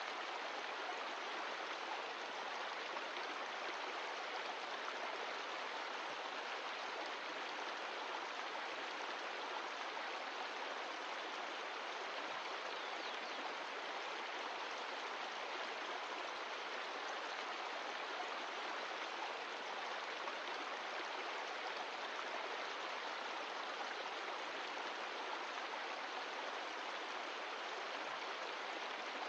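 Mountain stream flowing steadily, an even rush of water that doesn't change.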